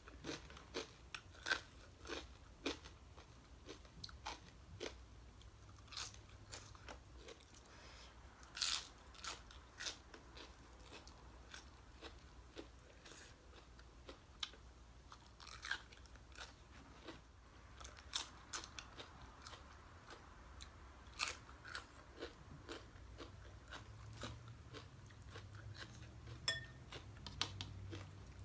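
Close-up chewing and crunching of green papaya salad, with irregular crisp crunches about every second, over a faint low steady hum.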